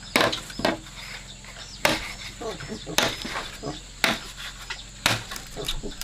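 Repeated chopping: sharp blows of a blade into wood, roughly once a second.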